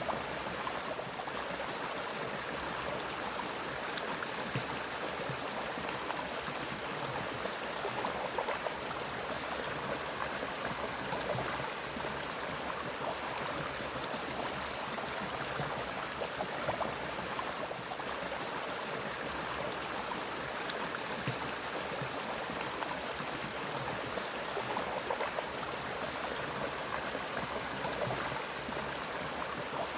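Mountain stream flowing and splashing over rocks in a steady rush, with a steady high-pitched drone above the water.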